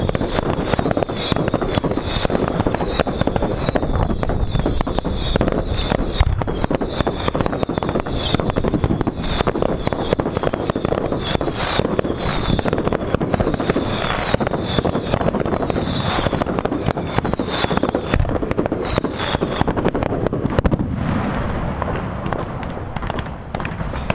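Fireworks display: a dense barrage of bangs and crackling, with many short falling whistles over it until about twenty seconds in, then thinner crackle.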